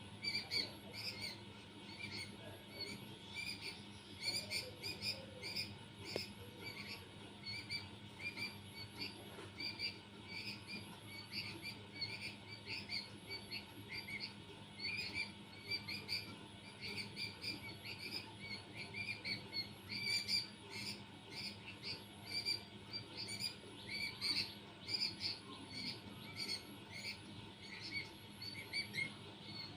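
Birds chirping: a steady stream of short, high calls, several a second and overlapping.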